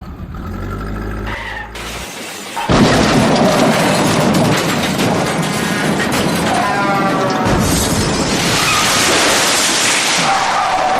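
Music with a sudden loud boom about three seconds in, running on as a long noisy crash-like rumble, typical of animated crash sound effects.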